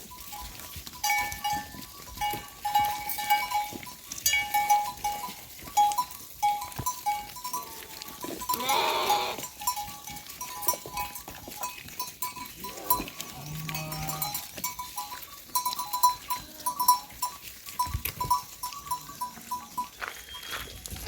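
A flock of sheep and goats with an animal bell clinking over and over, and one loud bleat about halfway through.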